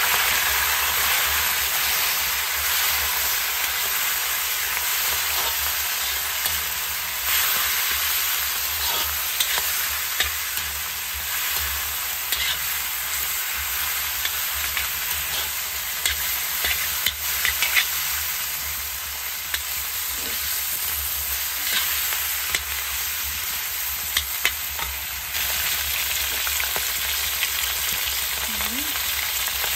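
Chicken pieces sizzling and frying in a black iron wok, with a steady hiss. A metal ladle stirs them, scraping and clicking against the pan now and then.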